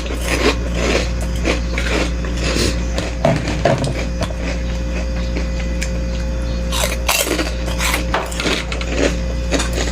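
Person eating bakso soup close to the microphone, with scattered short clicks and knocks in small clusters that fit chewing and a spoon against the bowl, over a steady low hum and a faint steady tone.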